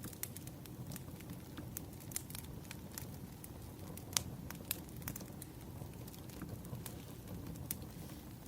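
Firewood burning: crackling, with irregular sharp pops over a low steady rumble.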